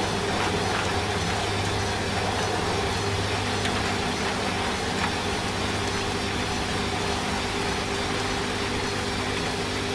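Washing machine running with a steady hum, mixed with an even hiss of rain.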